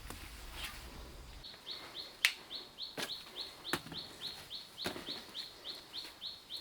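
A bird chirping over and over: short identical high chirps, about three or four a second, starting about a second and a half in. A few sharp knocks sound among the chirps.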